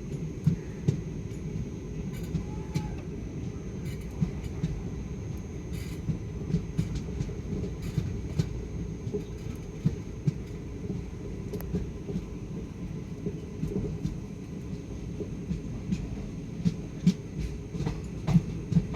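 Guruvayur–Trivandrum Intercity Express passenger train rolling on the rails: a steady low rumble with irregular wheel clacks and knocks as the wheels run over rail joints.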